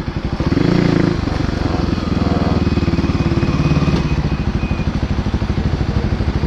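Kawasaki KLX250SF supermoto's single-cylinder four-stroke engine running under way, with a rapid, even beat of firing pulses.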